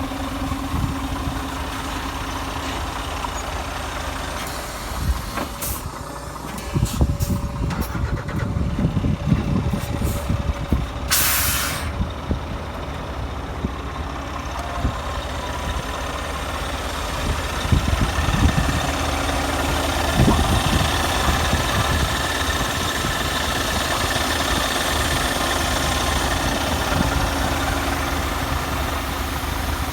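Scania truck's diesel engine running, growing louder and rougher in spells, with one short hiss of compressed air from the air brakes about eleven seconds in.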